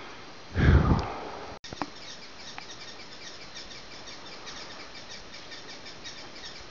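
Birds calling with quick, evenly repeated high chirps over outdoor background noise. About a second in, a loud, brief rush of noise on the microphone.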